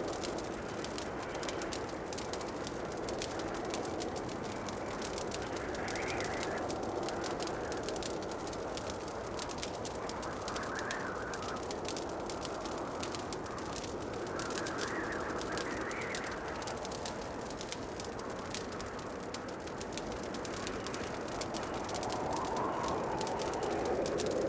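Wood fire crackling in a fireplace, with many small pops and snaps over a steady rushing noise that swells and fades every few seconds.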